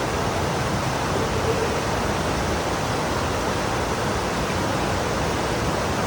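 Steady, heavy rain pouring down, an even, dense hiss.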